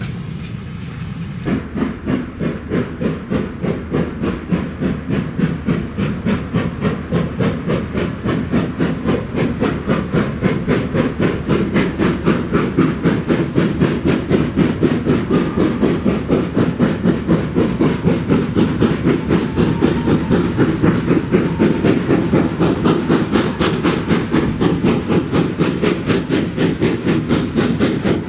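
Steam locomotive working a train, its exhaust chuffing in a steady rhythm that starts about a second and a half in and grows louder.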